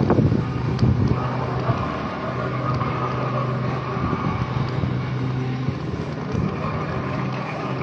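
Road traffic: a vehicle engine running with a steady hum, over general street noise, with a few low knocks in the first couple of seconds.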